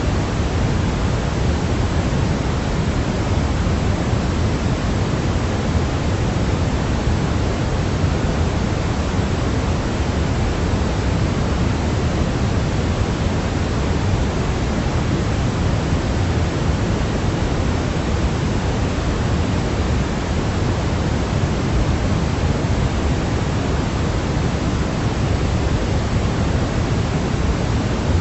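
Steady synthetic noise for baby sleep: an even, unbroken hiss, weighted toward the low end like pink noise, with no change in level throughout.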